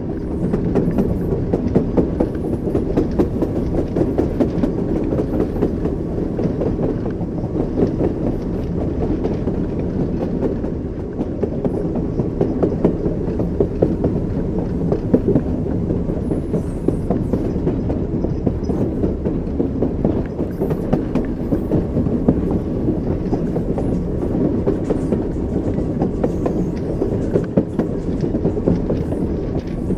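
Train wheels clattering over the rails, with small sharp clicks over a steady low rumble of the moving carriage.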